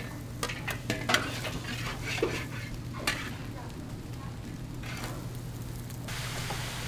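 Food sizzling as it fries, stirred with a metal utensil that clinks sharply several times in the first three seconds. A steadier hiss takes over near the end.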